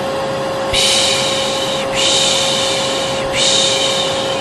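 Hair dryer running steadily with a constant hum, overlaid by repeated 'pışş' shushing used to calm a colicky baby: one long shush starts under a second in and another just after three seconds.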